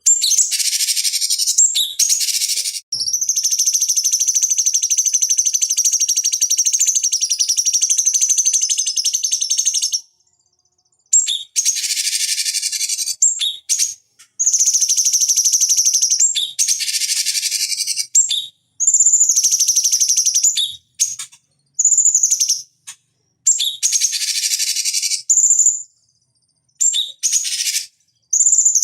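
Cucak cungkok singing a high, busy song. A long unbroken stretch runs for about seven seconds, then come shorter phrases of a second or two with brief pauses between them.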